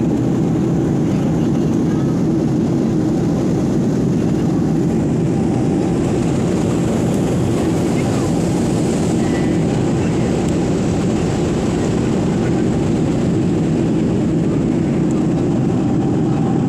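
Steady airliner cabin noise in flight: a loud, even rush of engine and airflow noise filling the passenger cabin.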